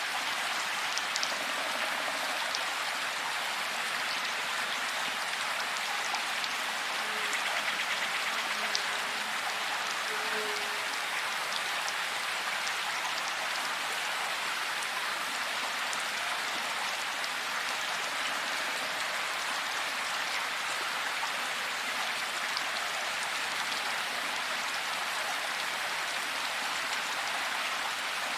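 Heavy rain falling steadily in a forest, an even hiss of rain with scattered drops.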